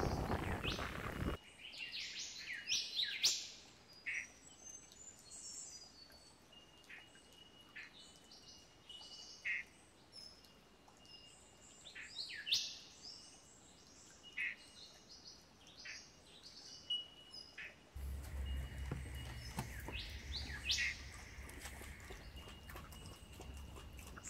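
Birds chirping and calling in short, scattered notes, some sliding down in pitch. About a second in, a loud rush of noise cuts off abruptly, and later a low hum comes in under the birdsong.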